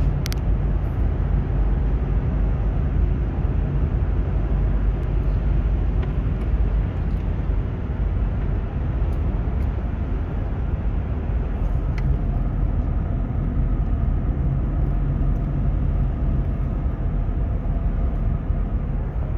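Steady road and engine noise of a car driving at speed, a continuous low rumble with a few faint clicks.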